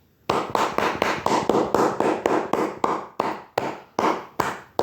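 A rapid run of sharp, evenly spaced strikes, about four a second, slowing slightly toward the end.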